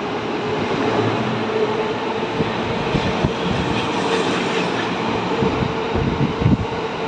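JR East E231 series 1000 electric commuter train pulling out of the station, its cars rolling past with a steady rumble and a constant hum. A cluster of wheel knocks over rail joints comes near the end.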